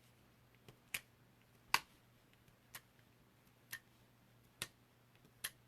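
A series of sharp, light clicks, about one a second, some louder than others.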